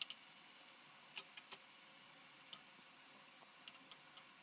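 Faint sizzle of paneer cubes, capsicum and onion searing in a little oil in a nonstick pan, with a few soft scattered ticks.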